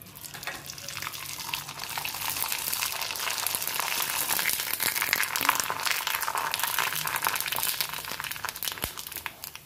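Sabudana-potato papad frying in hot oil: a dense sizzle full of fine crackles that builds over the first couple of seconds and dies down near the end.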